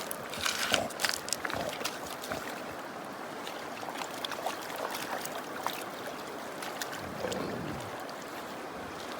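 Shallow running water, with a quick run of sharp splashes and clacks in the first two seconds and scattered ones after.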